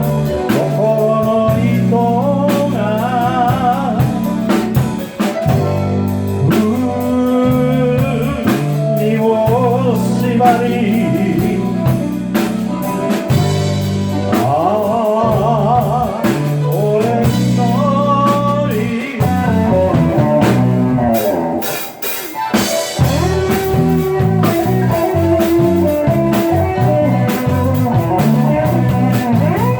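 A band playing a song with a singer: the voice wavers with vibrato over a walking bass, drum kit and guitar. The music dips briefly a little after 20 seconds and then carries on.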